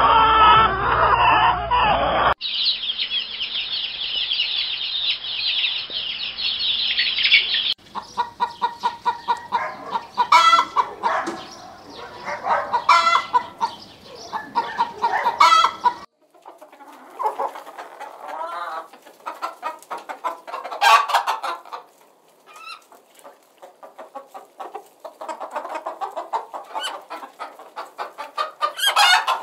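Domestic hens clucking, in a few spliced recordings: a dense high chatter for the first few seconds, then runs of short, rhythmic clucks.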